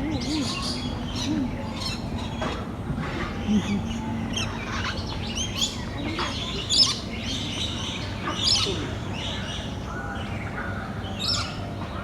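Several birds chirping and calling, with many short, overlapping high calls coming in quick succession.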